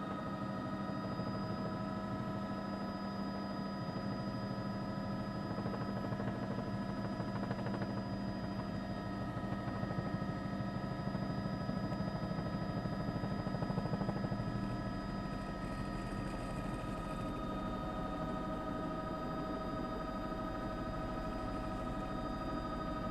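Steady mechanical drone with several held tones and a fast, even pulsing, slightly louder in the middle.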